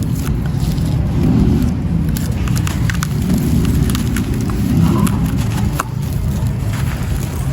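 Gritty wet sand crumbling in water, close to the microphone: a low, swelling rumble that rises and falls every second or two, scattered with small crackles and clicks of breaking grains.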